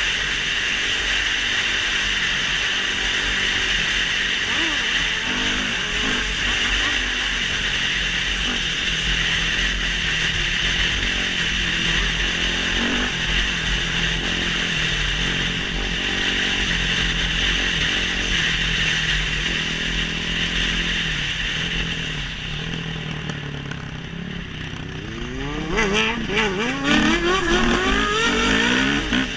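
Motorcycle engine running over steady wind-like noise, then revving up in several rising sweeps near the end as it accelerates hard.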